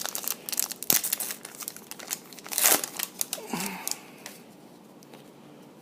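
Trading-card pack wrapper being torn open and crinkled, with cards handled. The crackling stops about four seconds in.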